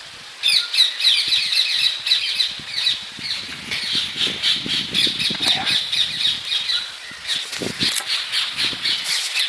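Birds calling: many short, high calls in quick succession, overlapping without a break.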